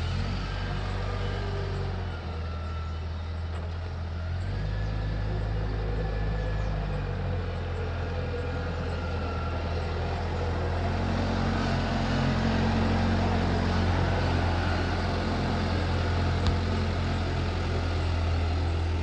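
Diesel engine of a heavy construction machine running under load while spreading and leveling volcanic ash, its note shifting a few times and getting louder about halfway through. A single sharp knock near the end.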